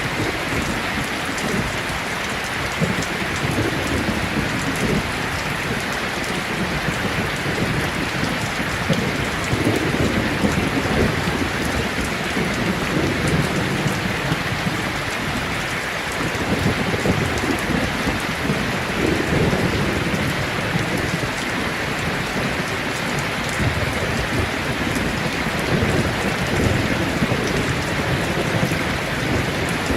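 Heavy rain falling steadily on a tin roof, with low rolls of thunder that swell and fade several times.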